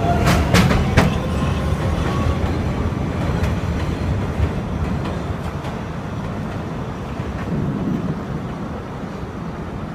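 New York City subway train on the 6 line pulling out of the station. Wheels clack sharply over rail joints in the first second, then a steady rumble fades as the train moves away.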